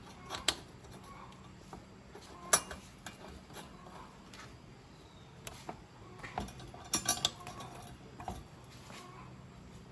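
Scattered sharp metallic clinks and taps of hand tools and small metal parts being handled, loudest about two and a half seconds in and in a quick cluster around seven seconds, over a faint steady low hum.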